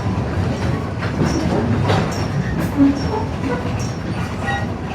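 Steady rumble of a train riding behind a steam locomotive, with wheels clicking over the rail joints and brief faint high squeals now and then.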